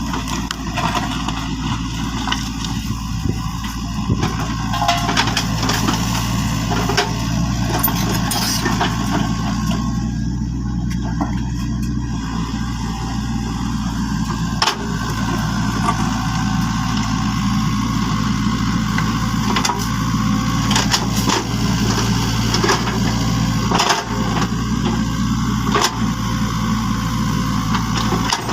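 An engine idling steadily with a low, even drone, with a few sharp clicks over it.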